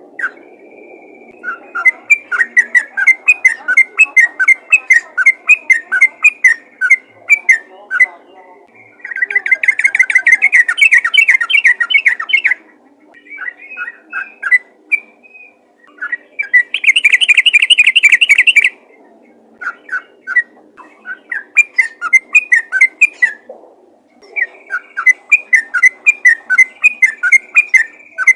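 Yellow-vented bulbul (trucukan) singing in fast, repeated runs of short bubbly notes, with two longer, louder rattling trills, about nine seconds in and about seventeen seconds in. A faint steady hum runs underneath.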